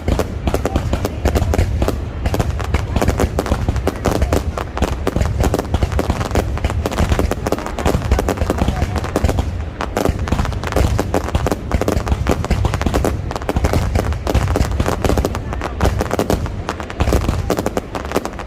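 Aerial fireworks going off in a rapid, unbroken string of bangs and crackles over a heavy low rumble.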